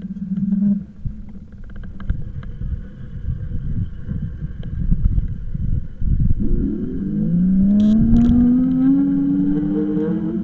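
Low wind and road rumble on the microphone while riding, then from about six seconds in a motor whine rising steadily in pitch, as of a vehicle speeding up, with a couple of short clicks partway through.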